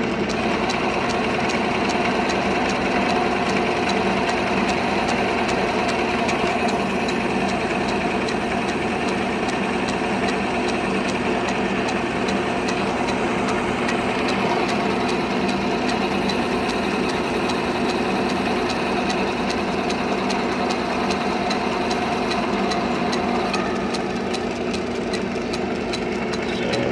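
1932 South Bend 8-inch Junior benchtop lathe running under power, taking a 15–20 thousandths cut in 3/4-inch aluminium bar. It has a steady run of light clicks from the seam on its drive belt. The sound shifts a little near the end.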